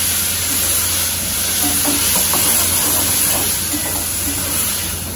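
Chopped tomatoes sizzling in hot ghee and oil in a steel pan as they are stirred with a ladle: a steady, loud frying hiss as the tomatoes start to sauté.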